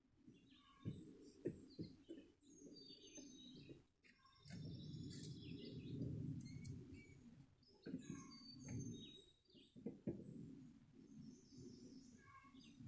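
Faint songbirds chirping in short calls throughout, over a low rumble, with a few sharp knocks about a second in and again near eight and ten seconds.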